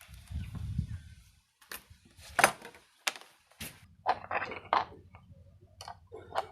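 A series of sharp clicks and knocks, some seven or eight in all, after a low rumble in the first second and a half.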